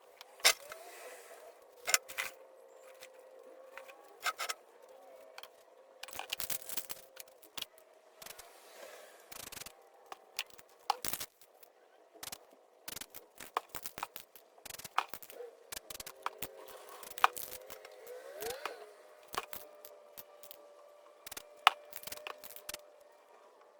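Spray-painting work: scattered sharp clicks, taps and scrapes of tools and paper on the painting surface, with a few short hisses of a spray can.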